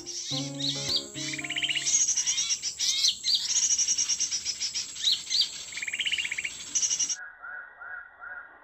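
Guitar music fades out in the first second, then a busy mix of bird chirps, quick rising and falling whistles and rapid trills. About seven seconds in it cuts abruptly to a muffled, lower bird call repeated about twice a second.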